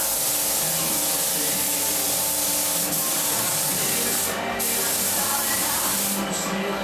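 Air spray gun hissing as it sprays UV lacquer, in two long passes with a short break about four and a half seconds in. Music plays underneath.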